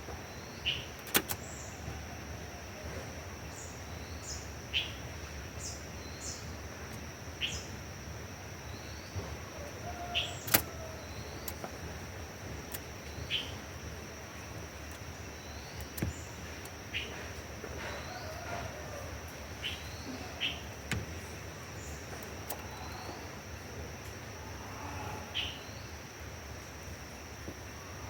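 Birds chirping in short, quick upward notes every second or two, with a few sharp clicks, over a steady high-pitched hiss.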